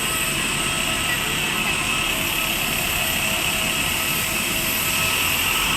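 Steady jet aircraft noise: a continuous rush with thin, high whining tones held at an even level, typical of a jet turbine or auxiliary power unit running on the ground.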